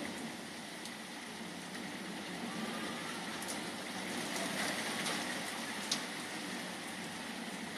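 Steady rain falling, an even hiss, with a few faint ticks of drops close by.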